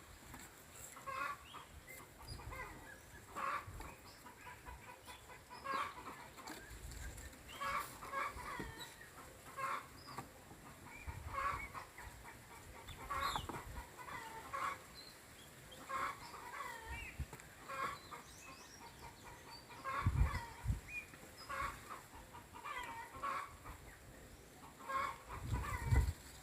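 Chickens clucking, short calls repeating every second or two, with a couple of low thumps toward the end.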